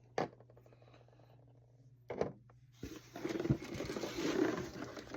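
Small plastic toy pieces clicking and knocking as they are handled, then a small plastic bag rustling and crinkling as it is handled, starting about three seconds in.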